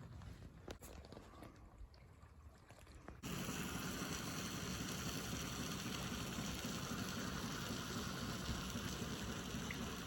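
Steady rushing noise of wind on the microphone over choppy lake water, starting suddenly about three seconds in after a nearly quiet opening with a few faint clicks.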